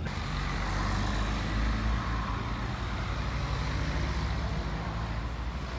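Porsche 911's air-cooled flat-six engine idling steadily, with a fast, even low pulsing under a hiss.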